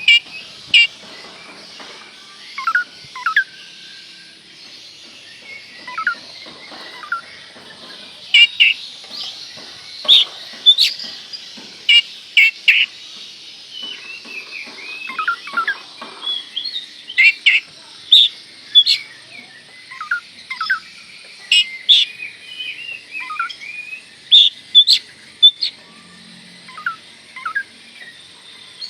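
Oriental magpie-robin (kacer) singing: a run of loud, sharp whistled notes and short downward-sliding calls in uneven phrases, over a faint steady high hiss.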